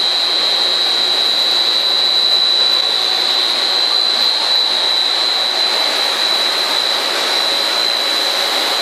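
Twin-screw extruder snack production line running: a steady mechanical noise with a constant high-pitched whine.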